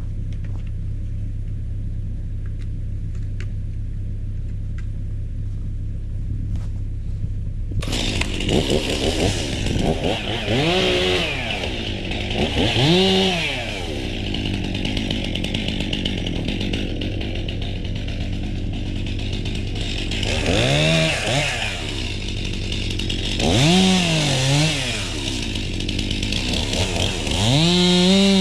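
A diesel engine idling steadily, then about eight seconds in a chainsaw starts running and revs up and down over and over as it cuts through wood.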